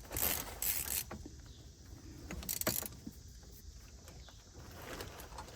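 A wrench straining against a seized fitting that will not turn: scattered light metal clinks and scrapes, busiest in the first second and again around the middle.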